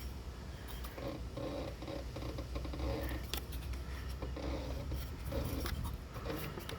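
Scratchy rubbing and small clicks as the Kawasaki engine's flywheel is turned by hand to bring its magnet round to the newly fitted ignition coil, checking the coil's clearance, over a low steady hum.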